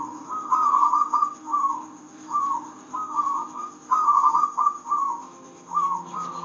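Zebra dove (perkutut) singing: a run of short, quick trilled coos in repeated phrases, each lasting well under a second, with brief pauses between them. Faint soft instrumental music sits underneath.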